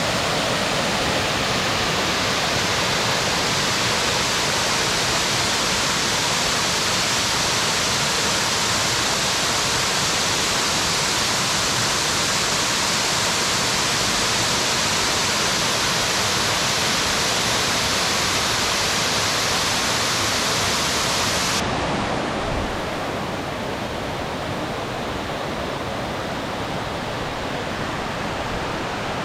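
Steady rushing water, like a waterfall or fast stream. About two-thirds of the way through, it cuts abruptly to a softer, duller rush.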